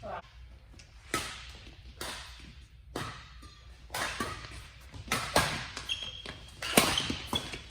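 Badminton rally: rackets striking the shuttlecock with sharp cracks about once a second, coming faster in the second half, with short shoe squeaks on the court floor near the end.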